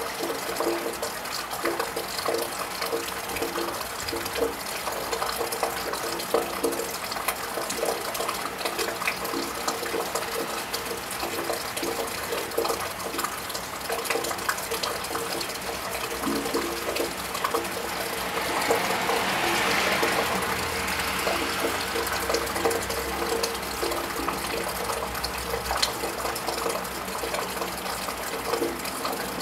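Steady rain pattering and dripping, with many small drops ticking and water trickling. About two-thirds of the way through, a car passes on the wet road, its tyre hiss swelling and fading.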